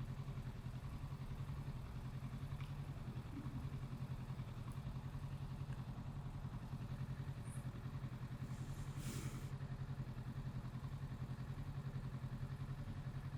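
Kawasaki Z650's parallel-twin engine idling steadily, a low, even pulsing hum with no revving.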